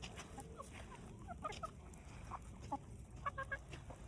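Hens clucking softly as they eat treats, short scattered calls with a quick run of about four notes near the end.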